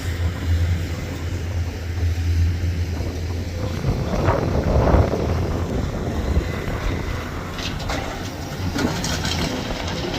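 A motor vehicle running, with a steady low hum for the first few seconds, then a rougher rushing noise.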